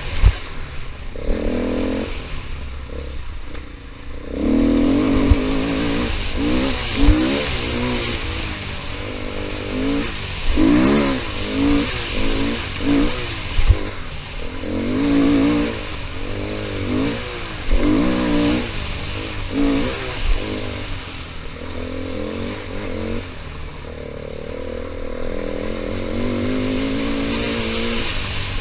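KTM 500 EXC dirt bike's single-cylinder four-stroke engine, revving up and dropping back again and again as it is ridden along a trail. Underneath is a steady low rumble with occasional knocks.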